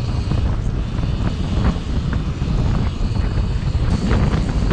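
Strong wind buffeting the microphone: a loud, fluttering low rumble that rises and falls with the gusts.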